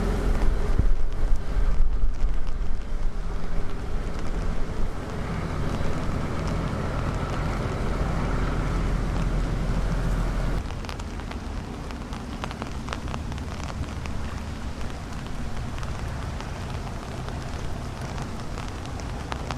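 Diesel engine of a river sand boat running with a steady low drone over wind and light rain. About halfway through the engine sound drops suddenly, leaving the wind and rain noise with scattered light ticks.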